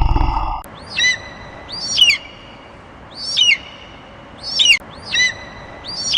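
The tail of a loud, deep roar cuts off about half a second in. Then a bird calls six times at irregular intervals, each call a short, high whistled note that swoops up and down.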